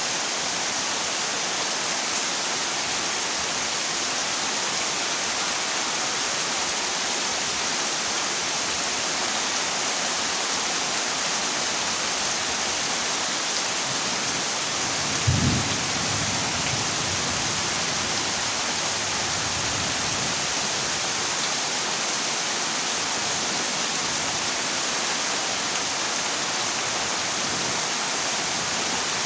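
Heavy rain drumming steadily on a corrugated zinc roof. About halfway through a single thunderclap breaks in and rumbles away over a few seconds.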